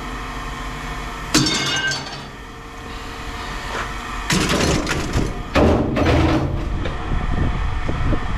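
Scrap metal pieces being dropped and tossed down, clanking and clattering: one sharp clank about a second and a half in, then a longer run of clattering in the second half.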